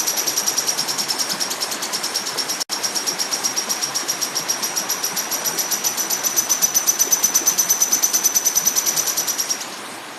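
Lovebird singing a long, rapid, high-pitched chattering trill of about ten notes a second, over a steady hiss; the trill breaks off for an instant about two and a half seconds in and stops shortly before the end. It is a lovebird song played as a tutor recording for young birds.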